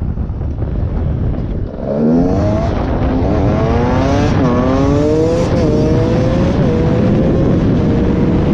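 Beta 125RR two-stroke dirt bike engine accelerating hard from about two seconds in. Its pitch climbs and drops back sharply three times as it shifts up through the gears, then holds steady at speed, over a constant rush of wind on the microphone.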